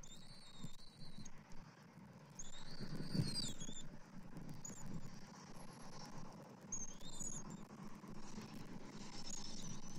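Several short, thin, high-pitched bird calls, some held and some sliding up and down, over a low rustling rumble on the nest-cam microphone. The rumble is loudest around three seconds in.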